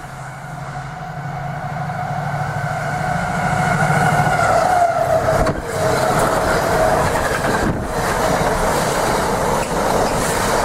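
A train approaching and running past. A low steady hum grows louder over the first four seconds, then gives way to a broad, steady rumble.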